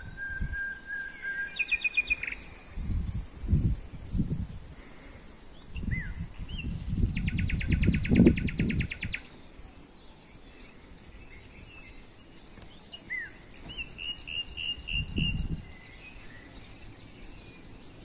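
Songbirds calling and singing: a held whistle, short fast trills, a dry rattling trill about halfway through, and a few down-slurred notes, with several low rumbles on the microphone.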